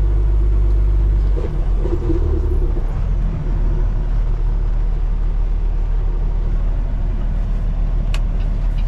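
Peterbilt 389 semi truck's diesel engine running at low speed while maneuvering to park, its note shifting about a second and a half in. A couple of short ticks near the end.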